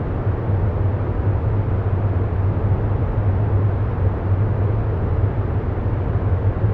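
Steady low drone with an even rumbling hiss over it, unchanging throughout: the ambient background bed of a meditation track.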